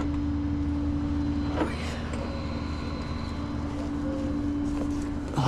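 Truck engine running steadily with a constant droning hum, a brief click about a second and a half in.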